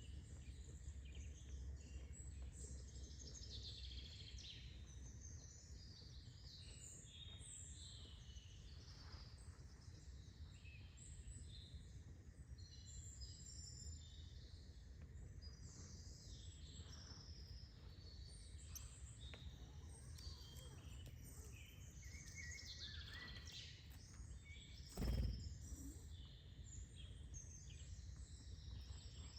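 Several birds chirping and calling on and off over a faint low rumble. A single brief thump about 25 seconds in is the loudest sound.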